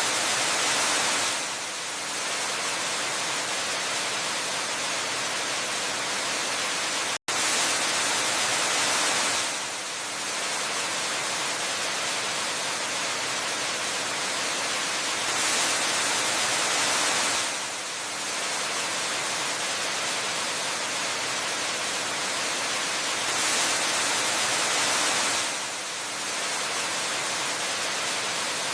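Waterfall rushing: a steady bright hiss of falling water that swells louder for a couple of seconds about every eight seconds. It cuts out for an instant about seven seconds in.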